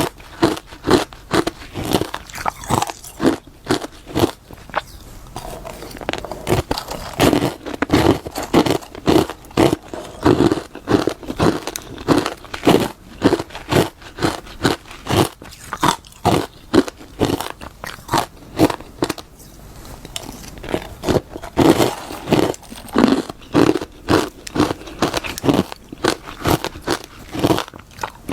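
Close-miked biting and chewing of crunchy freezer frost: a steady run of crisp crunches, about two to three a second.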